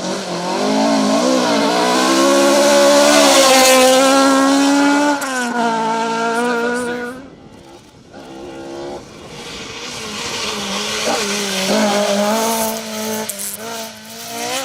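Ford Escort Mk2 rally car engine at high revs, pitch rising and falling through gear changes. About seven seconds in the sound drops away briefly, then an engine revs up again.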